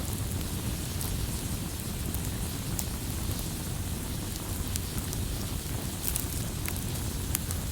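Campfire burning with a steady low rumble and hiss, and scattered sharp crackles and pops from the burning wood, a few close together about six seconds in.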